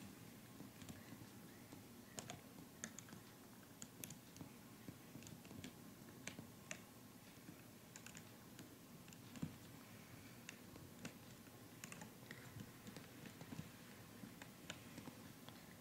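Faint, irregular small clicks of a plastic loom hook tapping against the pegs of a rubber-band bracelet loom as bands are pulled over and looped onto the pegs.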